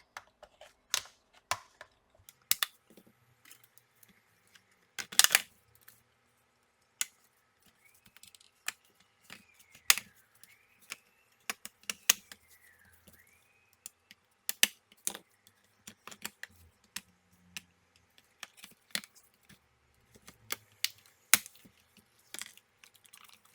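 Plastic laptop case being pried apart with an opening tool: irregular sharp clicks and snaps as the clips let go, the loudest about five seconds in.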